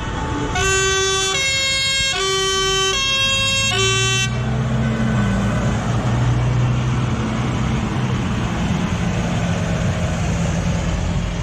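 A two-tone horn blaring in alternating low and high notes for about four seconds, then the low, steady running of a passing tractor's diesel engine.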